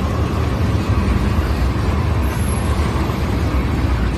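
Loaded ethanol tank cars of a freight train rolling past close by: a steady, loud rumble of steel wheels on the rails.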